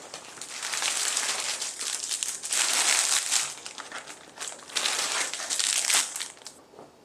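Plastic packaging being crinkled and rustled in the hands in three bouts of handling, stopping shortly before the end.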